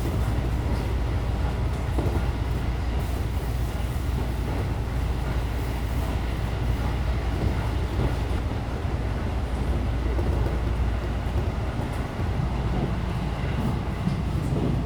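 Steady running noise inside a JR Central Special Rapid electric train: an even low rumble of wheels on rail and running gear.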